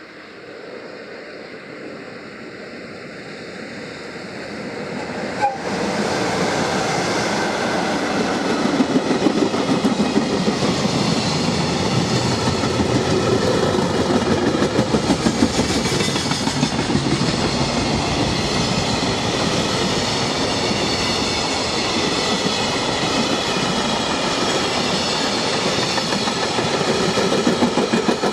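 A freight train hauled by a JR Freight EF66 electric locomotive approaches and then passes at speed. From about six seconds in it is loud, with wheels clacking over the rail joints in regular groups as the wagons go by.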